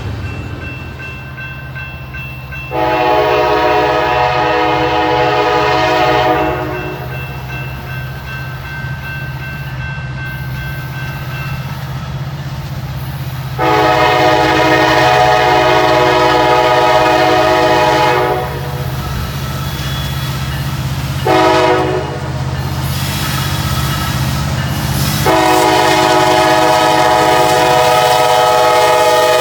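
Freight train's diesel locomotive air horn sounding the grade-crossing pattern: long, long, short, then a long blast held to the end. A steady low rumble from the train runs underneath.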